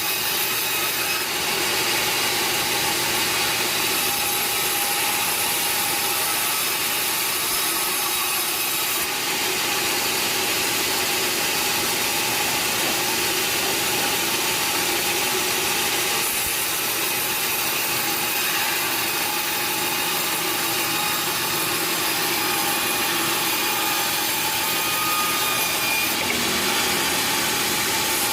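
Sawmill saw running steadily, cutting through wood, with a constant whine over the noise of the cut.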